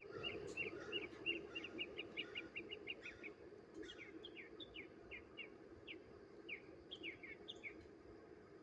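Small birds chirping: a quick run of short, evenly spaced chirps, then separate notes that slur downward, over a steady low hum.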